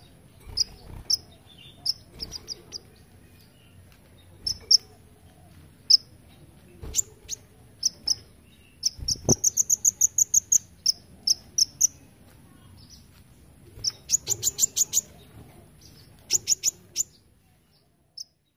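Kolibri ninja sunbird singing sharp, high chirps mixed with fast runs of rapidly repeated notes, two such runs standing out in the middle and later part. A single low knock comes about nine seconds in.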